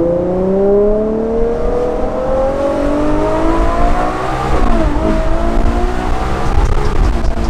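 Ferrari 812 GTS's naturally aspirated 6.5-litre V12 pulling hard under acceleration, heard from the open-roof cabin. The engine note climbs steadily for about four and a half seconds, drops sharply at an upshift, then climbs again.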